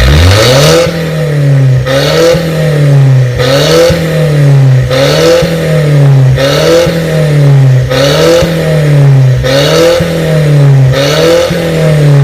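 Mercedes-Benz C180 (W204) four-cylinder engine revved again and again through an aftermarket valve exhaust with the valve open, the pitch rising sharply and falling back about every second and a half.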